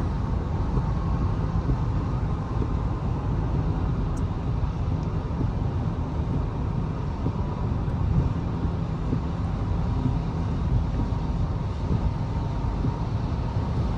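Steady road and engine rumble inside a moving car's cabin, with a faint steady whine on top.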